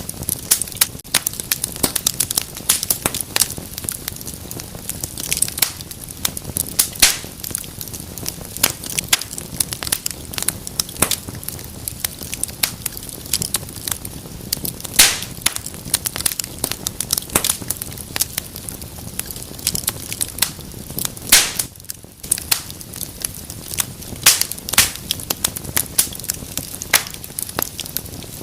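Wood fire burning in a fireplace: a steady stream of crackles over a soft hiss, with a few louder pops, the loudest about halfway through and again about 21 seconds in.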